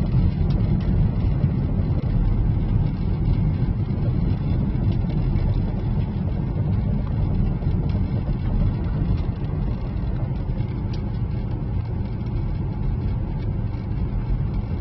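Steady low rumble of a car driving: engine and road noise, with a few faint ticks.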